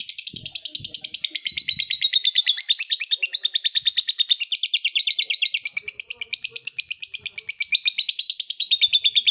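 Lovebird ngekek: one long, unbroken chattering trill of rapid repeated shrill notes that drifts slowly down in pitch and lifts again near the end.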